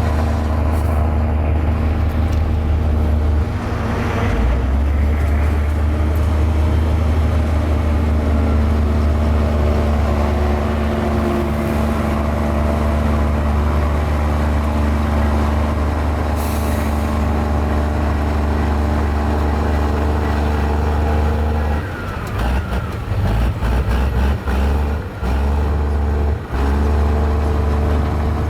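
Diesel engine of a mini Komatsu bulldozer running steadily under load as it pushes fill. Near the end the engine note dips and wavers several times.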